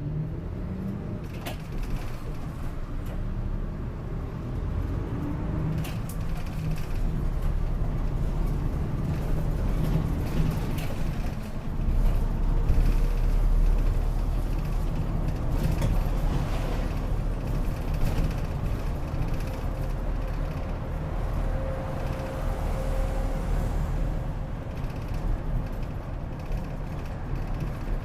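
Interior running sound of a city bus under way: steady low engine and drivetrain rumble with road noise, growing a little louder about halfway through, and occasional short clicks from the cabin.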